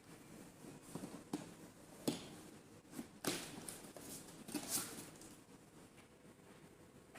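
Light handling noises: a few sharp clicks and knocks mixed with rustling. The sounds are scattered through the first five seconds and quieten after that.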